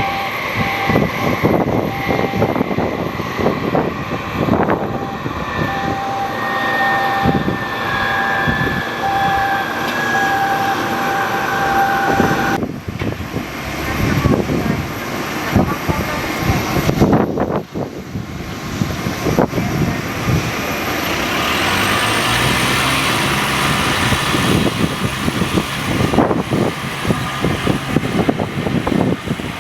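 Airliner engines running under heavy wind buffeting on the microphone. A steady whine falls slowly in pitch, then breaks off, and about two-thirds of the way through the engine pitch rises as they spool up.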